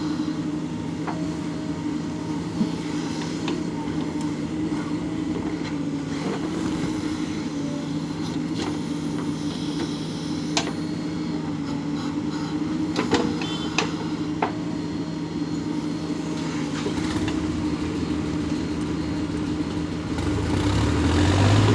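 JCB 3DX backhoe loader's diesel engine running steadily, with a few sharp knocks. It grows louder and deeper near the end.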